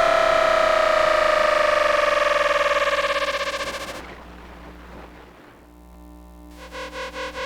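Electrical whine of a Tokyu 1000 series train's Toyo GTO-VVVF inverter and traction motors, picked up by an inductor coil rather than a microphone. A stack of tones falls in pitch as the train slows and fades out about four seconds in. After a quiet spell, a new pulsing tone at a steady pitch starts near the end and grows louder.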